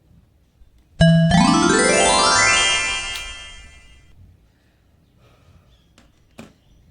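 A keyboard-like musical sound effect: a sudden bright tone about a second in with a rising sweep in pitch, held for a couple of seconds and then fading out. A few faint clicks follow.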